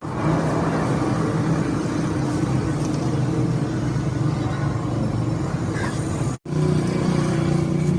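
Hero Splendor motorcycle's single-cylinder four-stroke engine running at a steady idle, cut off abruptly for an instant about six and a half seconds in.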